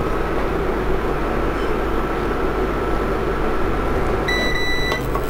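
Gujiya deep-frying in ghee, a steady sizzle together with the steady hum and faint whine of an induction cooktop running on high. About four seconds in, the cooktop gives a short electronic beep from its controls.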